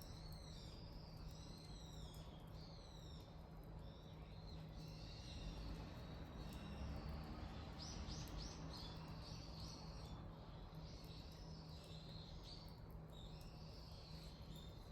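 Small birds calling over and over in high, arching chirps, with a quick run of notes about eight seconds in. Beneath them are the faint crackle of a wood bonfire and a steady low hum.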